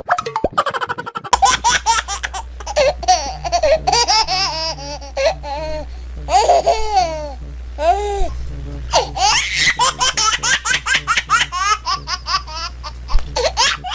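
High-pitched laughter in long runs of quick bursts, with a steady low hum underneath.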